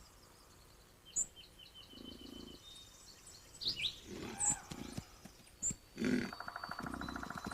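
Wood bison giving short, low grunts several times, with small birds chirping in a quick series of high notes and a rapid trill near the end.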